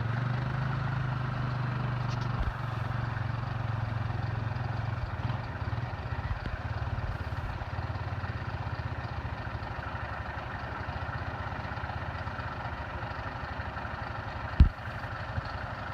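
Engine of a Polaris RZR side-by-side UTV running steadily with a low hum. Near the end there is one sharp knock.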